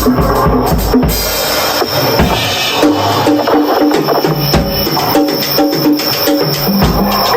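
Drum kit playing a busy solo: rapid, even hits over pitched tones, with the deep kick dropping out about a second in.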